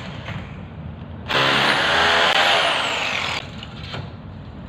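An electric power drill runs for about two seconds, starting sharply about a second in. Its high motor whine rises and then falls as it spins down and cuts off.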